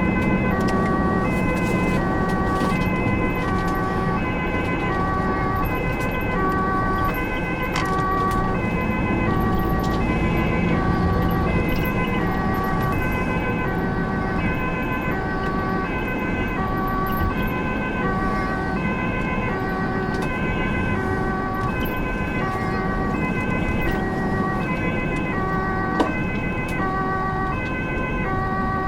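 Ambulance two-tone siren alternating steadily between a high and a low note, over the engine and road noise of the moving vehicle.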